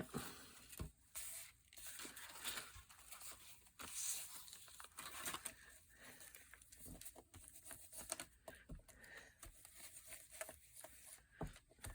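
Faint rustling and tearing of paper being handled, with scattered soft clicks.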